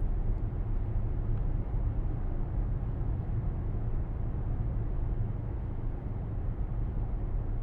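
Mercedes-AMG GLC63 S's 4.0-litre twin-turbo V8 running at a steady low rumble while the car is driven, with road noise mixed in.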